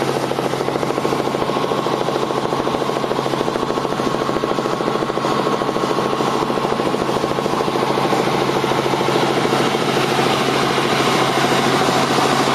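Helicopter in flight: steady rotor and engine noise with a fast, even blade chop.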